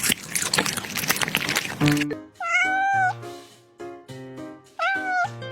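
A cat meowing twice, two drawn-out calls that bend in pitch, over background music. For the first two seconds a steady hiss plays over the music and then cuts off suddenly.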